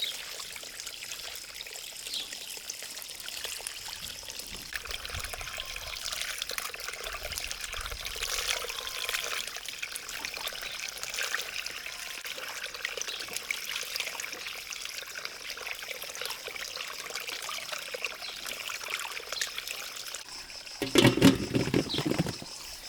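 Water trickling and pouring steadily, with a louder, fuller burst of noise for about a second and a half near the end.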